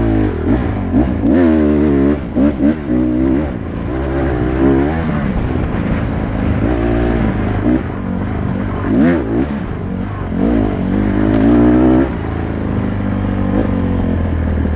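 Dirt bike engine revving up and down over and over as it is ridden, its pitch rising and falling every second or two.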